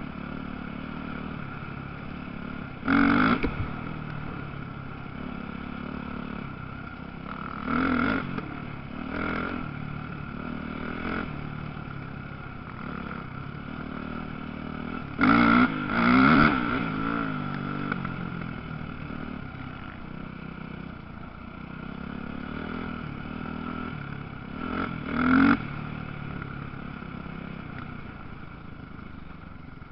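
Motocross dirt bikes racing: a steady drone of engines from around the track, with bikes revving close by and loud several times, about 3, 8, 16 and 25 seconds in.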